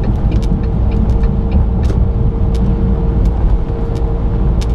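Inside a moving semi-truck cab: a steady low rumble of engine and road noise with a faint constant hum, broken by scattered short clicks and rattles.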